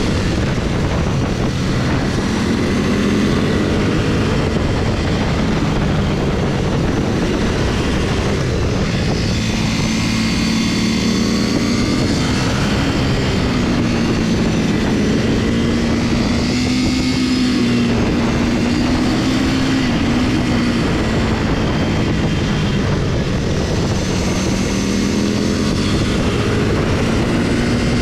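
Motorcycle engine running while riding, its pitch rising and falling with the throttle through the bends, over steady wind rush.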